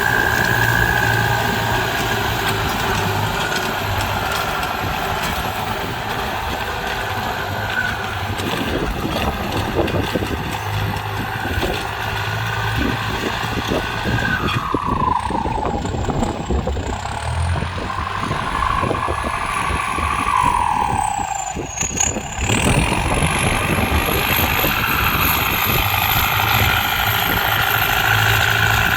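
ZT 155 tractor engine running steadily under load, its whine twice sagging in pitch, around the middle and again about two-thirds through, then climbing back up.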